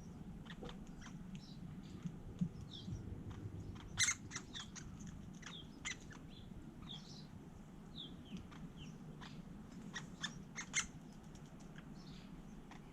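Wild birds calling in short, high falling chirps, with a scattering of sharp taps or clicks, the loudest about four seconds in and a quick cluster near the end, over a faint low background hum.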